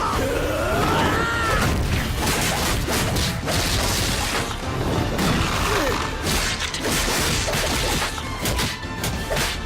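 Anime fight soundtrack: a drawn-out shout over music, then a rapid run of punch and kick impacts and crashes over the music.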